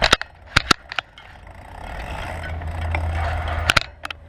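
Bicycle riding along with a steady low wind rumble on the microphone and road noise. Sharp clacks come several times in the first second and once more near the end.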